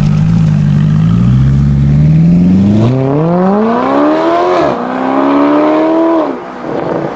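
Mercedes-Benz SLS AMG's 6.2-litre V8 with an aftermarket exhaust, accelerating hard. The engine note rises steadily, drops sharply at an upshift about two-thirds of the way in, climbs again, then falls away as the throttle is lifted near the end.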